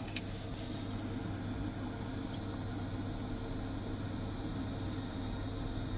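Biasi gas combi boiler running, fired on central heating: a steady low mechanical hum, with a faint click just after the start.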